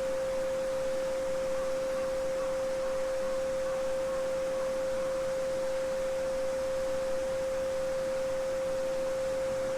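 A steady 528 Hz sine tone (Solfeggio frequency), one pure pitch held without change, over a faint background hiss of a babbling brook.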